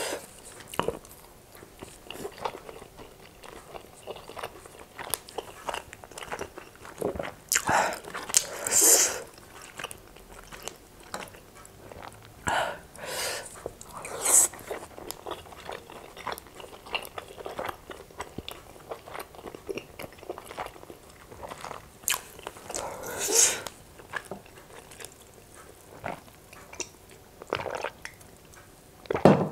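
Close-miked mouth sounds of a person eating steamed chicken momo dumplings and noodles: wet chewing with small clicks and lip smacks, and a few louder bites.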